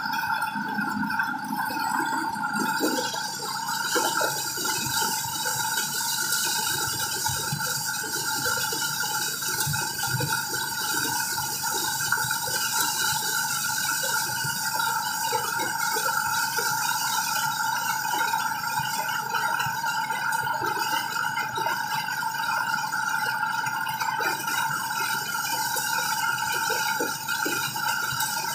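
Motorised corn sheller running steadily: a constant two-note whine over a high hiss, with scattered small rattles and clicks.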